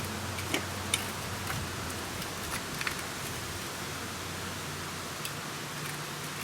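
A few light metallic clicks and taps from an exhaust pipe, heat shield and mounting nuts being handled and fitted by hand at a motorcycle's exhaust ports, over a steady hiss and low hum. A sharper click comes at the end.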